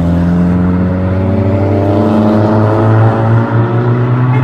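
A car engine pulling away under steady acceleration, its note rising slowly. A steadier, lower engine note runs underneath.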